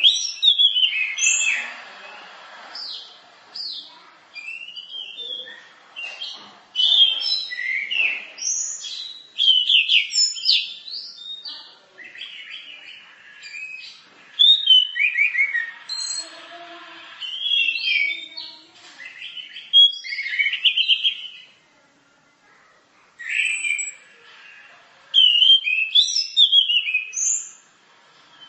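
Orange-headed thrush (anis merah) singing a varied, mimicking song of high chirps, trills and whistled notes, delivered in quick phrases with short pauses between them.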